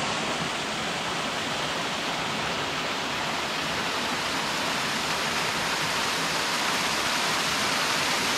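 Small waterfall rushing steadily, an even hiss of falling water with no breaks.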